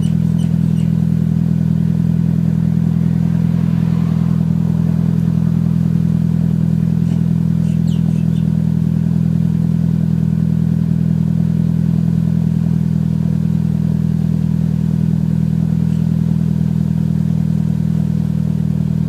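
Mitsubishi Lancer Evolution VII's turbocharged four-cylinder engine idling steadily through an Invidia cat-back exhaust, shortly after a cold start. The exhaust gives an even, deep drone with no revving.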